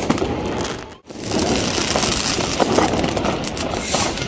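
Fireworks and firecrackers crackling and banging in a dense, continuous barrage, with a brief drop-out about a second in.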